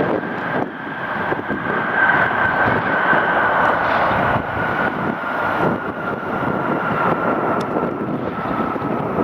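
Jet airliner passing close overhead on its landing approach: a steady rumble with a high engine whine that slowly falls in pitch as it goes by, with wind buffeting the microphone.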